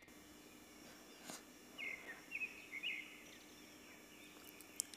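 Faint room tone with a few short, soft bird chirps in the background, plus a light click early on and a sharp tick near the end.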